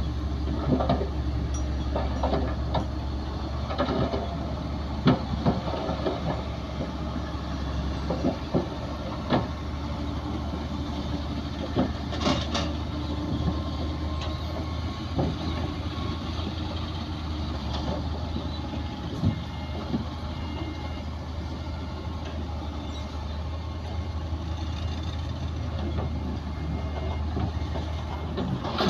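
Heavy diesel earthmoving machinery running steadily with a low engine rumble, with scattered clanks and knocks.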